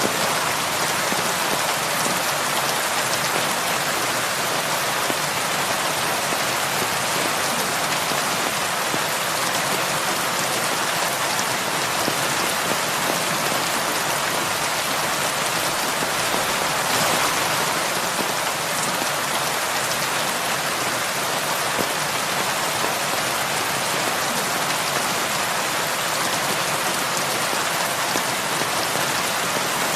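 Heavy rain falling steadily on a roof, an even dense patter, swelling slightly for a moment about halfway through.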